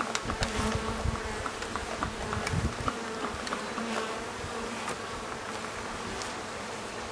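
Swarm of honeybees from an agitated colony buzzing around an open top-bar hive: a steady droning hum, with scattered sharp clicks and low bumps in the first few seconds.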